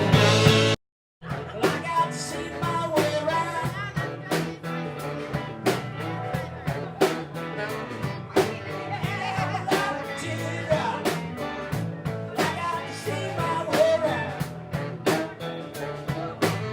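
Live band playing a song with drums keeping a steady beat under guitar. The sound cuts out completely for a fraction of a second about a second in, then the music carries on.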